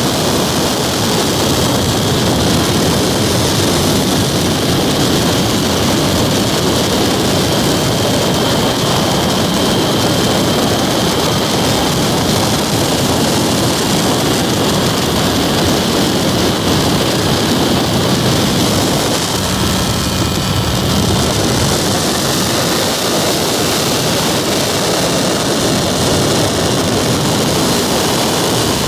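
Weedhopper ultralight airplane's small two-stroke engine and propeller droning steadily in flight, with a steady hiss over it. A low hum comes in briefly about two-thirds of the way through and again at the very end.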